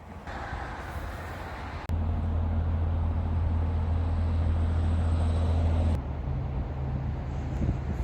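Vehicle driving: steady engine and road drone with a low hum, in short clips that change abruptly about two seconds and six seconds in.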